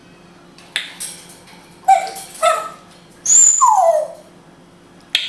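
African grey parrot calling: a sharp click about a second in, two short calls, then a harsh squawk with a high whistle that slides into a falling call, and another sharp sound near the end.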